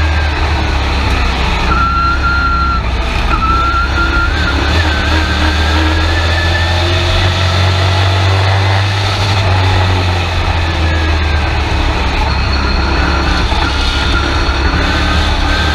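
Race truck's engine running, heard from inside the cab: a steady low drone with a thin whine that wavers up and down in pitch.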